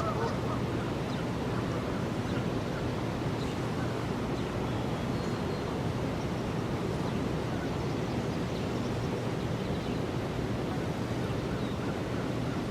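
Steady outdoor rushing of wind, with a faint low hum under it and a few faint bird chirps near the middle.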